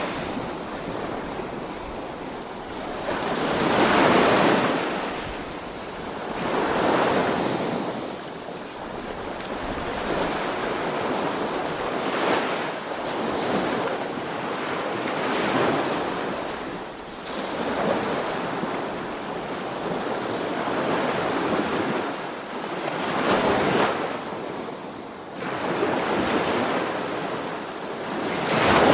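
Sea waves breaking and washing onto the shore, a fresh surge every few seconds, with wind on the microphone.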